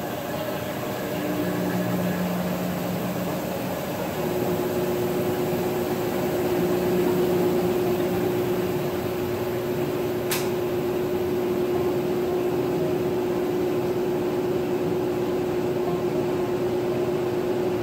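Maytag top-load agitator washing machine running with a steady motor hum. A steady tone sets in about four seconds in, and there is a single short click about ten seconds in.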